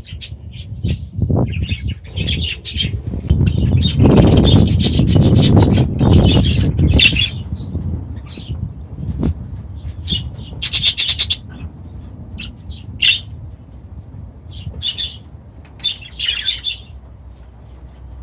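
Cockatiels in an aviary, chirping and calling in short bursts, with a loud flurry of wing flapping about four to seven seconds in.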